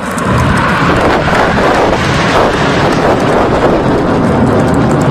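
Red Arrows' BAE Hawk T1 jets passing at low level. A loud, steady jet rush comes in sharply just after the start and holds.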